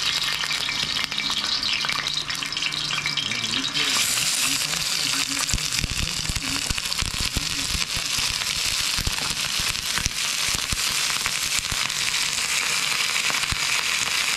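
Chicken pieces sizzling hard in hot oil in a plow-disc frying pan, full of small crackles and pops. The sizzle grows thicker about four seconds in, then holds steady.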